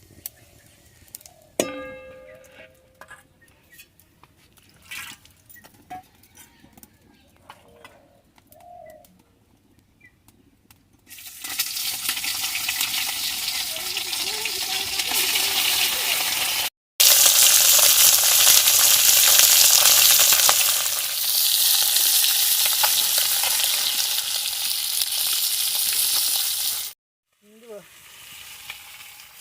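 Food frying in hot oil in a pan, a loud, steady sizzle that starts about a third of the way in. Before it come scattered small clicks and a single ringing metallic clink.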